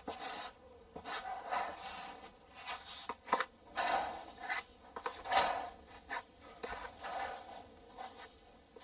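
Filling knife spreading and pressing wet GIB finishing compound over a mesh-patched drywall hole: more than a dozen short scraping strokes in an uneven rhythm.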